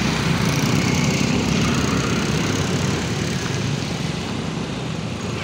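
Taxi's engine running close by: a steady low rumble with an even hiss over it.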